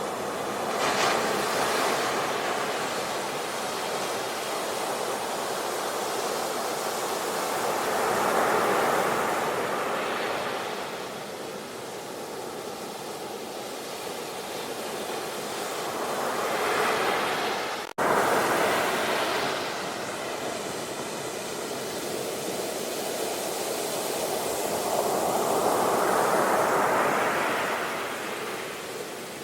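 Ocean waves surging and breaking on a shore, the wash swelling and ebbing every several seconds. There is a split-second gap about two thirds of the way through.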